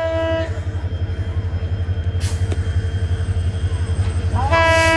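Express train running with a steady, fast-pulsing low rumble, its horn sounding a short blast at the start and again near the end.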